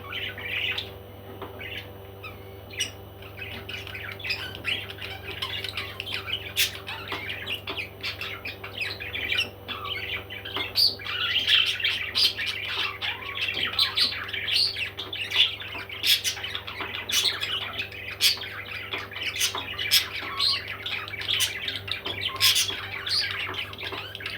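Parrots squawking and chattering continuously, with many short sharp calls, growing louder about halfway through.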